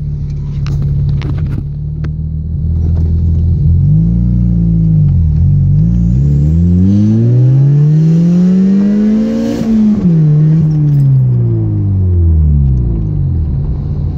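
Supercharged 1987 Toyota MR2's 1.6-litre 4A-GZE four-cylinder heard from inside the cabin on a pull. It runs steadily for a few seconds, then the revs climb in a long rising note from about four seconds in, peak near ten seconds, and fall away again before settling to a steady note near the end.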